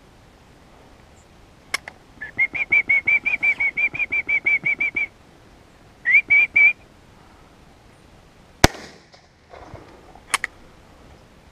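A bird calls a fast string of clear whistled notes at one pitch, about six a second for three seconds, then a short burst of three more. About two thirds of the way in comes a single sharp shotgun bang with a brief echo, and there is a smaller crack near the end.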